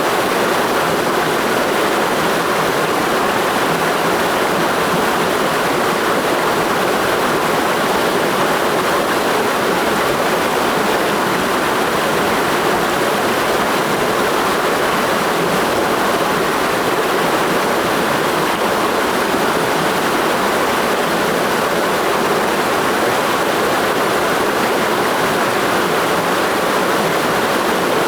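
Clear mountain stream rushing over rocks, a steady loud rush of water with no breaks or changes.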